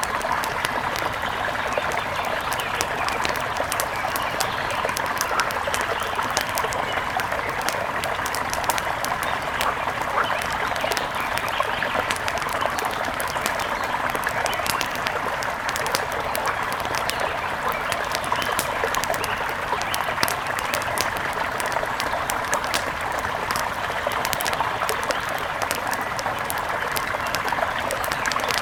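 Steady rush of a mountain river with an outdoor wood fire crackling over it in many small, scattered pops.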